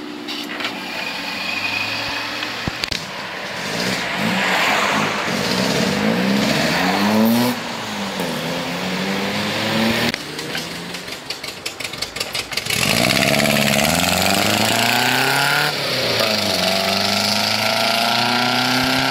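Car engines accelerating away, the pitch climbing and dropping at each gear change, with a second car pulling away loudly about two thirds of the way through. A run of sharp crackles sits between the two pulls.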